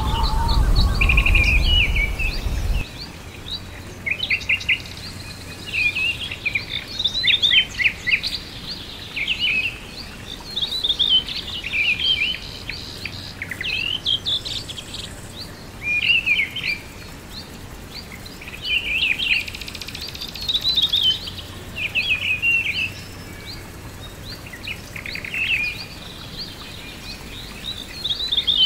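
Songbirds singing, short chirping phrases repeated every second or two over a faint steady hiss. A low rumble underneath stops about three seconds in.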